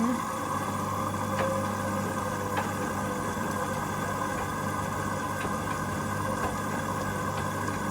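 Hoover Link washing machine running its first rinse: a steady machine hum with a few faint clicks.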